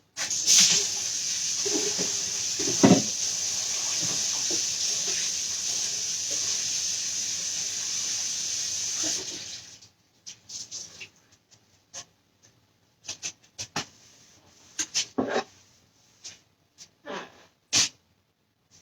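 Kitchen faucet running into the sink for about nine seconds, then shut off suddenly. Scattered light clicks and knocks follow.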